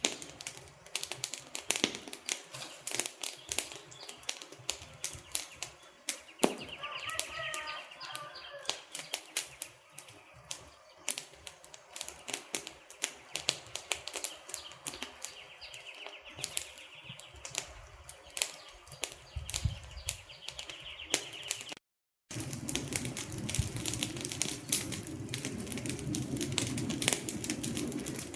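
Wood fire crackling, with a dense irregular stream of sharp pops and snaps from the burning logs. About 22 seconds in, the sound cuts out for an instant, then resumes with a fuller low rushing under the crackles.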